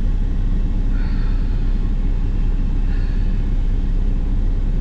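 Steady low rumble of a truck heard from inside the cab, engine and road noise with no change in pitch.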